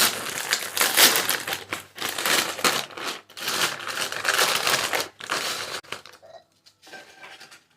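Loud, close-miked crinkling and crunching as a chili dog and chips meal begins, in irregular bursts that die down after about six seconds.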